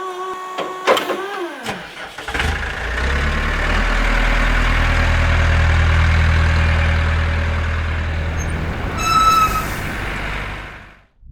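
An engine being started: about two seconds of cranking with a whine that rises and falls, then it catches and runs steadily. A short high-pitched tone sounds about nine seconds in, and the engine fades out near the end.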